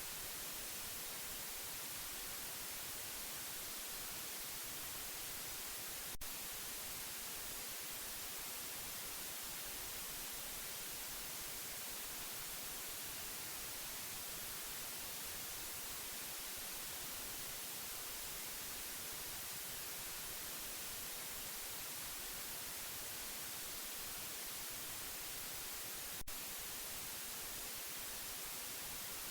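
Steady, even hiss of white noise, heaviest in the high end, played as a sleep sound for a baby. Two brief clicks break it, about 6 seconds in and again about 20 seconds later.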